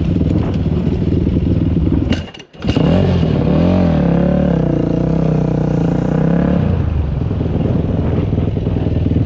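Dirt bike engine running on a trail ride, the sound dropping out briefly just over two seconds in. It then revs up and down for a few seconds before settling back to a steadier run.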